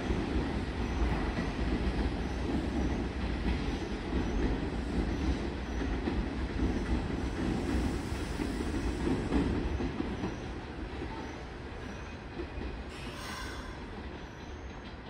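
Nishitetsu 9000 series electric train pulling away along the station track, its running rumble and wheel noise fading after about ten seconds as it leaves.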